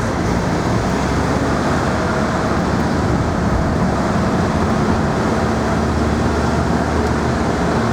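Steady road and engine noise of a moving vehicle, with a low rumble and a faint hum that comes in about halfway through.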